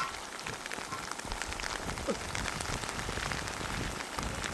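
Rain falling steadily, with many separate drops striking close by.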